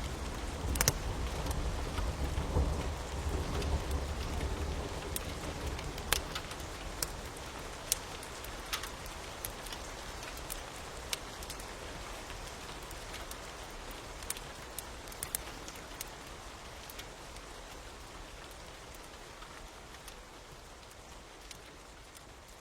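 Steady rain with scattered sharp crackling pops, the mix of rain and crackling fire that the track is made of. A low rumble dies away about five seconds in, and the whole sound gradually fades out.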